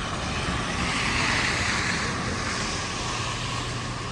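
A road vehicle passing on the street, a hiss of tyre and engine noise that swells about a second in and then fades.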